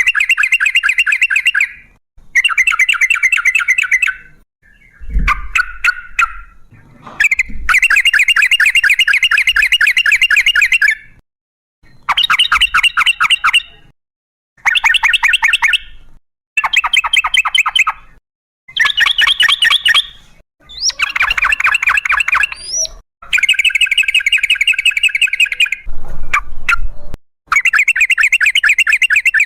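Yellow-vented bulbul (trucukan) singing its long, rapid bubbling song in repeated bursts of two to three seconds, separated by short pauses. A few low knocks can be heard among the bursts.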